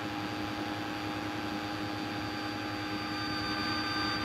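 Steady drone of a light aircraft's engine and propeller heard inside the cabin: an even hiss with several steady tones held throughout, growing slightly louder.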